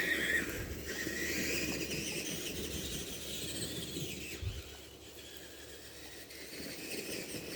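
Tamiya TXT-2 RC monster truck's electric drive motors whining, the pitch rising and falling with the throttle, over a low steady rustle; it drops quieter about halfway through.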